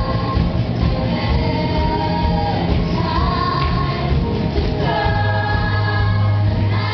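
A choir of high school students singing a pop song together over instrumental accompaniment with a steady bass.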